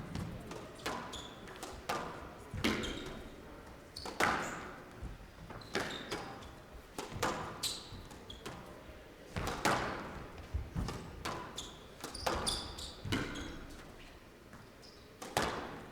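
Squash rally: the ball cracks off the rackets and the court walls about once a second, with short high squeaks of shoes on the court floor in between.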